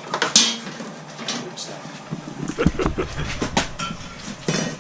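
Metal hand tools working on a motorcycle chain: scattered sharp clicks and knocks, with a short low rumble a little past the middle.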